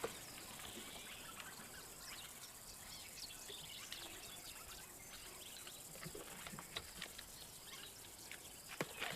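Faint bush ambience: scattered small bird chirps and soft ticks and rustles over a low background hiss.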